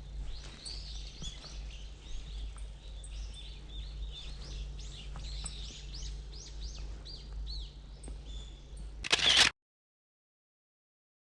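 Small birds chirping repeatedly over a steady low rumble. About nine seconds in, a loud, brief noise burst cuts everything off into dead silence.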